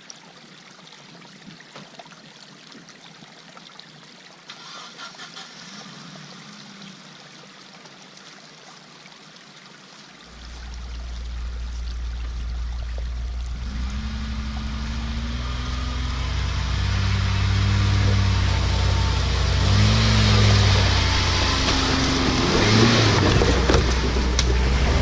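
Off-road 4x4's engine, quiet at first, then running under load from about ten seconds in, its revs rising and falling repeatedly while the vehicle is rocked to get it unstuck.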